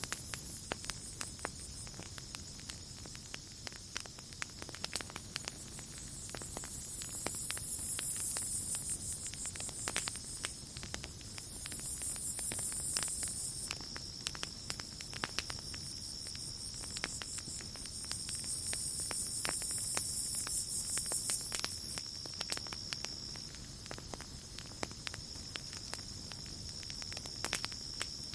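Campfire crackling with frequent sharp pops, over a steady high cricket trill. A higher, hissing buzz swells up and fades three times.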